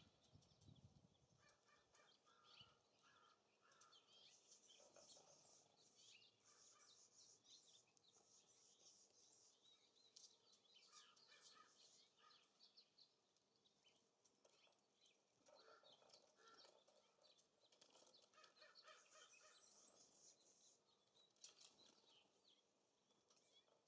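Faint chirps and calls of small songbirds around a feeder: many short high notes scattered throughout, with short runs of lower repeated notes in places.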